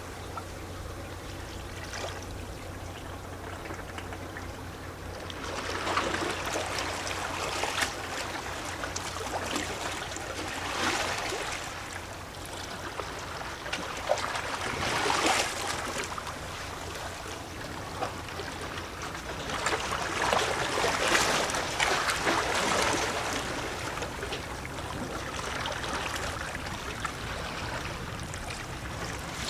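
Small sea waves lapping and sloshing against shoreline rocks, with gurgling and splashing that swell in several surges and ebb between them.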